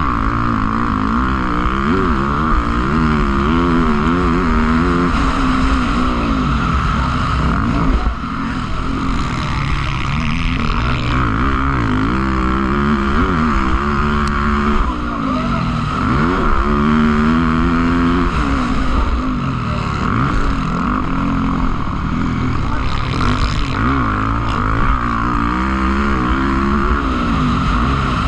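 Motocross bike engines racing, revving up and falling back over and over as the riders accelerate and shift, with more than one bike heard at once.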